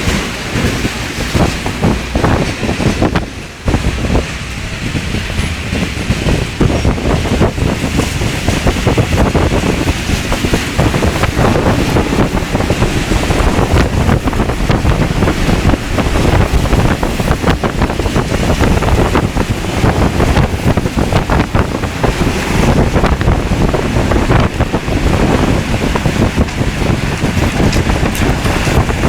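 Violent rainstorm with gale-force wind: a continuous loud rush of wind and rain, the gusts buffeting the microphone with a heavy low rumble. It briefly drops about three and a half seconds in, then rises again.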